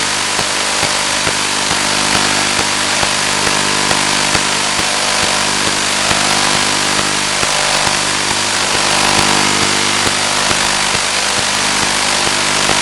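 Steady loud hiss with a constant buzzing hum underneath, the audio track of a Finwing Penguin FPV plane's onboard video recording.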